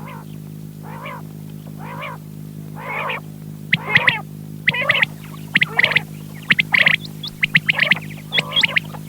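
Quails calling, short pitched calls repeated about once a second, with more calls and high chirps crowding in during the second half, over a steady low hum.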